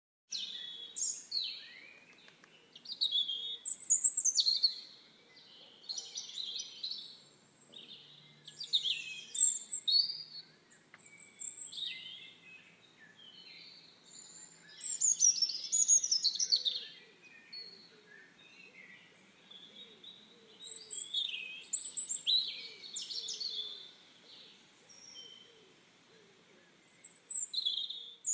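Birds chirping and singing, many short high calls coming in clusters every second or two with brief lulls between.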